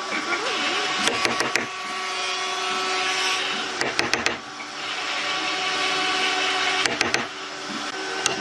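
A tool working wood, making a steady scraping noise in passes of two to three seconds. Each pass is broken off by a short cluster of sharp clicks, with a faint steady hum underneath.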